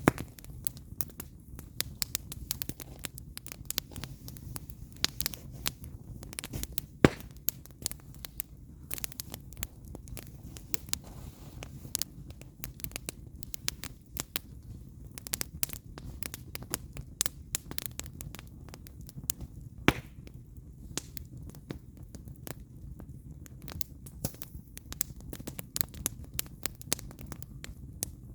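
Firewood burning in a campfire, crackling with many irregular sharp pops over a steady low rumble; two pops stand out, about seven seconds in and again near twenty seconds.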